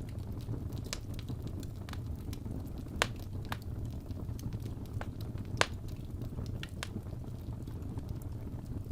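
Wood fire burning in a fireplace: a steady low rumble with scattered crackles and pops, two sharper pops standing out about three and five and a half seconds in.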